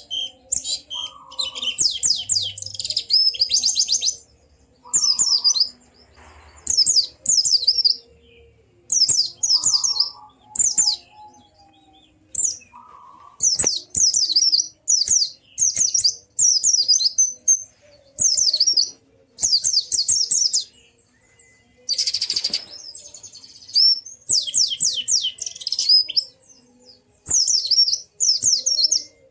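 White-eye (pleci) singing: repeated bursts of fast, high twittering trills, each a second or two long with short pauses between, and a few fainter, lower notes in the gaps.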